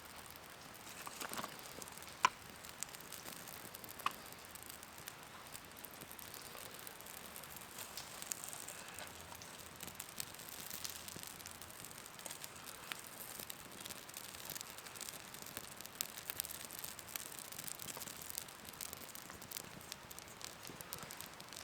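Scattered light ticks and pattering over a soft steady hiss, with two sharper clicks in the first few seconds. The ticking grows denser after about eight seconds.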